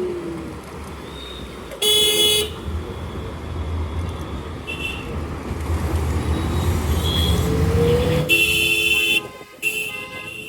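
City traffic heard from a moving scooter: steady wind and road noise, with vehicle horns honking. There is a short honk about two seconds in, a couple of brief toots in the middle, and a longer honk in two parts near the end. A low rumble from a passing vehicle builds up in between.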